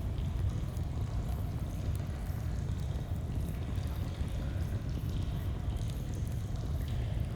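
Steady rushing of a flowing stream, heavy in the low range, with faint campfire crackles ticking over it.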